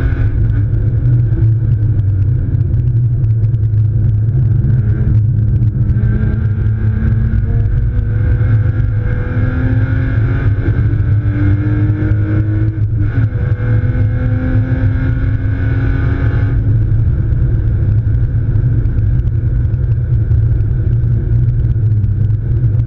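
BMW E36 328i's straight-six engine heard from inside the cabin over a heavy rumble of road and wind noise. The engine note climbs slowly, drops back at a shift about 5 seconds in and again at about 13 seconds, then eases off at about 17 seconds.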